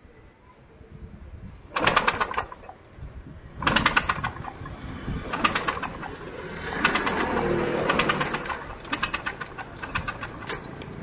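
Scooter engine being turned over on its kick-starter with the spark plug out, in about six short bursts of rapid pulsing. This is part of freeing up an engine with low compression after gasoline has been put into the cylinder.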